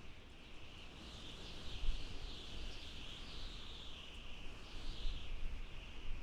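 Desert wind howling: a high whistling note that wavers slowly up and down in pitch, over a low, gusty rumble.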